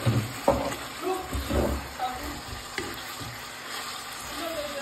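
Food sizzling in a frying pan as it is stirred, with a few knocks of the utensil against the pan in the first two seconds.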